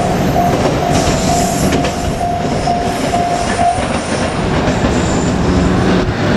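JR Kyushu 817 series electric train passing over a level crossing, its wheels clacking over the rail joints. The crossing alarm dings about twice a second over the train and stops a little past halfway.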